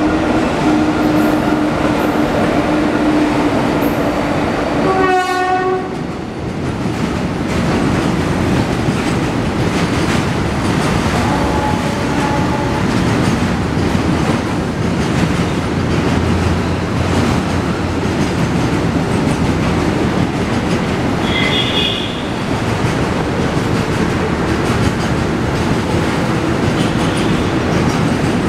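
Indian Railways WAG-7 electric locomotive horn sounding steadily for about five seconds, ending with a short blast. Then a freight train of tank wagons rolls past with a steady clatter of wheels over the rail joints.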